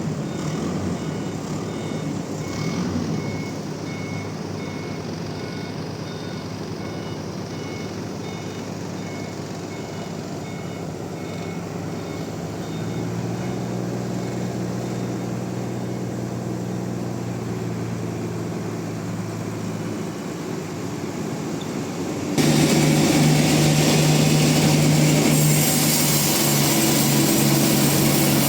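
A heavy vehicle's engine runs with its reversing alarm beeping steadily, the beeps fading out about twelve seconds in. About 22 seconds in, a much louder machine noise starts abruptly.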